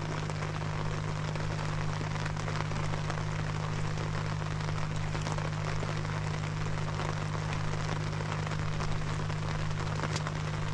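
Steady rain, a dense patter of drops, over a constant low hum.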